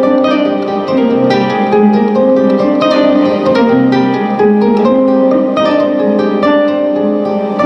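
Live solo instrumental music on a plucked string instrument: quick picked notes over a low note that comes back every couple of seconds.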